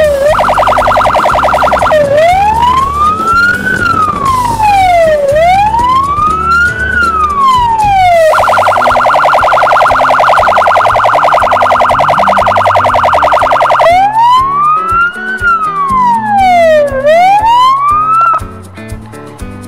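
Electronic siren of a motorcycle escort unit, switching between a fast warble and a slow rising-and-falling wail. It warbles briefly, wails through two slow cycles, warbles again for several seconds, wails again, then cuts off suddenly near the end.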